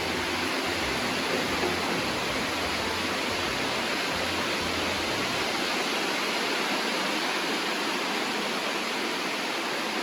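Heavy rain falling on a barn roof, a steady, unbroken hiss.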